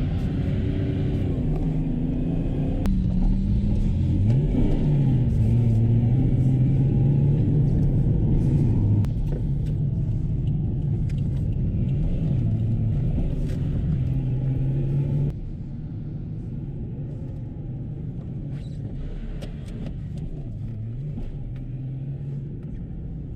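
Drift car engine running hard, its pitch dropping and climbing back sharply about three times as the throttle is lifted and reapplied. The sound gets suddenly quieter about two-thirds of the way through.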